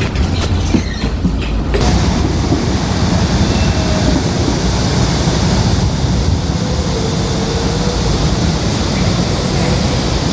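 Train running past on the tracks: a quick run of wheel clacks in the first two seconds, then a loud, steady rumble and rush.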